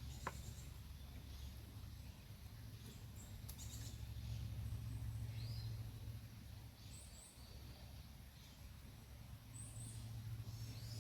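Faint, short bird chirps over a steady low rumble of outdoor background noise, with a sharp click or two near the start.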